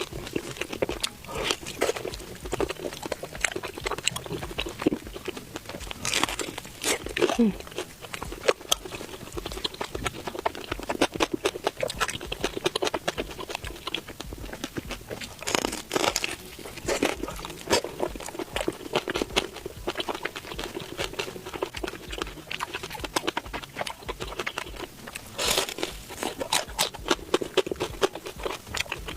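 Close-miked chewing and crunching of deep-fried skewered food, with many irregular crisp bites and wet mouth sounds.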